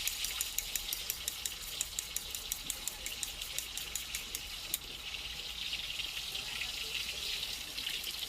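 Chicken frying in hot oil in a wok, sizzling with rapid crackles and spits that die away about five seconds in, leaving a steady sizzle.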